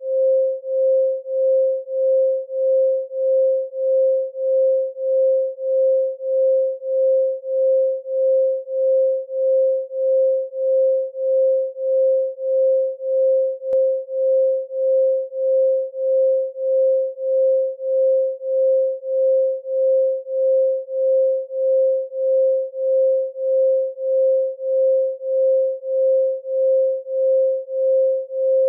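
A synthesised 528 Hz solfeggio tone: a pure sine tone held at one pitch, pulsing evenly in loudness about every two-thirds of a second.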